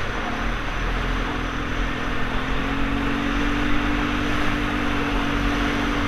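ATV engine running under way, its pitch dipping briefly near the start, then climbing and holding steady, over a steady rushing noise of wind and tyres.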